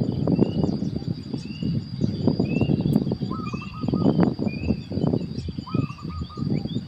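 Small birds calling: short high chirps repeated about twice a second, with a brief lower trill twice, over loud crackling rustle.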